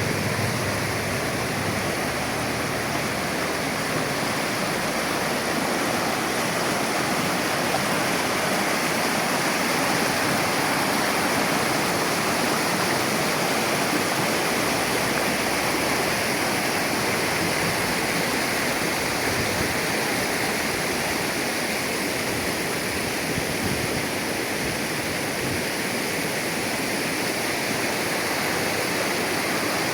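Shallow river water flowing steadily over its bed, a continuous even rushing and burbling with no breaks.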